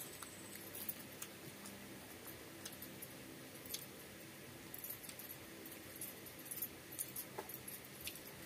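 Mouth sounds of eating rice and curry by hand: scattered short, wet clicks and smacks of chewing, over a faint steady hiss.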